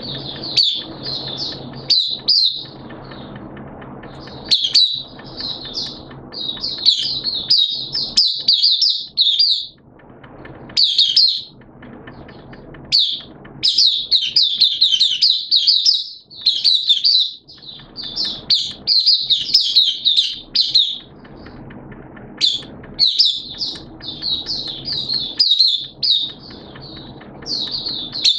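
A songbird singing in long runs of rapid, high twittering notes, phrase after phrase with short breaks between.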